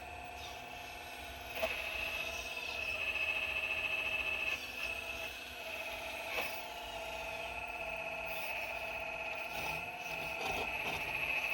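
4200XL excavator running with a steady high-pitched whine that wavers slightly in pitch as it works. Sharp knocks and scrapes come a couple of times, about a second and a half in and again midway, as it digs at rocks.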